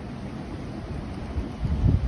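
Strong blizzard wind gusting and buffeting the microphone, with a louder gust near the end.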